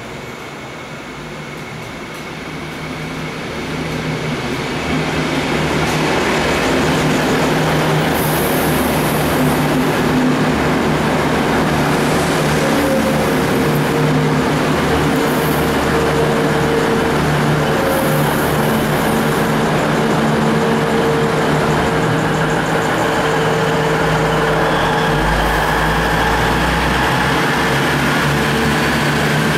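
V/Line VLocity diesel railcar set approaching and running along the platform: a steady engine drone under heavy wheel-on-rail noise. It grows louder over the first six seconds, then holds steady, with a few brief high hisses along the way.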